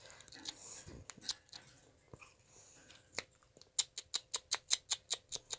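A rapid, even run of sharp clicks, about seven a second, starting a little past halfway and lasting about two seconds, after a few scattered faint clicks and rustles.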